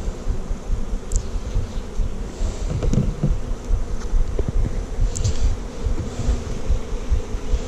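A swarm of honeybees buzzing around an open hive in a steady, dense drone, agitated by being moved from a nuc. Wind buffets the microphone with a low, gusting rumble, and there are a few light knocks.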